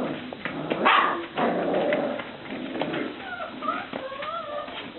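Five-week-old puppies whimpering, with short rising and falling whines in the second half and a louder, rough burst about a second in.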